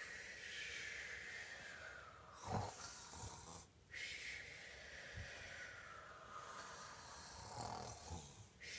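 Faint cartoon-style snoring, twice, each snore ending in a thin whistle that slides down in pitch.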